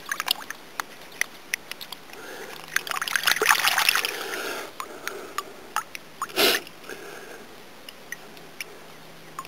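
Creek water splashing and trickling as a stone artifact is rinsed by hand, with small clicks and drips; the splashing is busiest a few seconds in, with one sharper splash past the middle.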